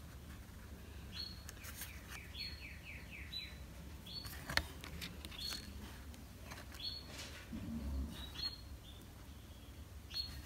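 Faint, high bird chirps repeating about once a second, with a quick run of falling notes near the start. A single sharp tap about four and a half seconds in, over a steady low hum.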